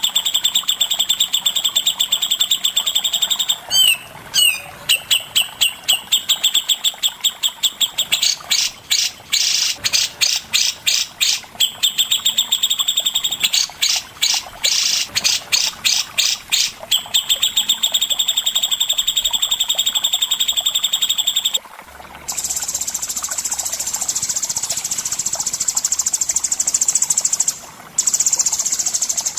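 A songbird singing a fast, loud trill of rapidly repeated high notes, which breaks in the middle into quicker runs of separate notes. Near the end it gives way to a higher, continuous buzzing trill.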